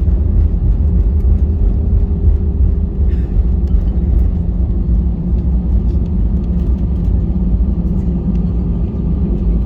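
Cabin noise aboard an Airbus A320-214: a steady low rumble of its CFM56 engines and the airflow, with a few steady tones running through it.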